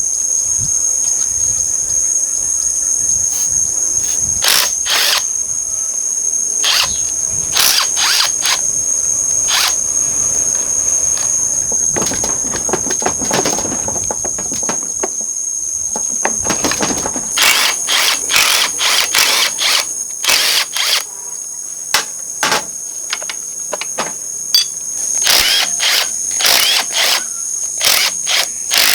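Hand and power tools working on metal engine parts: many sharp clicks and metallic knocks with runs of a drill or ratchet, busier in the second half, over a steady high-pitched whine.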